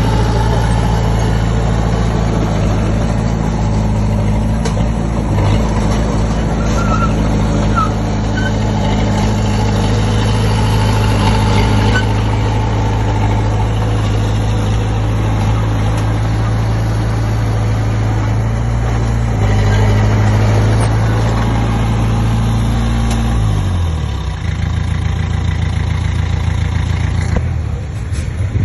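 Komatsu D20P bulldozer's diesel engine running steadily at working revs while pushing soil; near the end its note falls as the revs drop.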